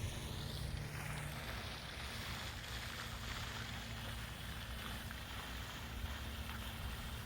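Steady low rumble of wind on the microphone, with a faint steady hum underneath.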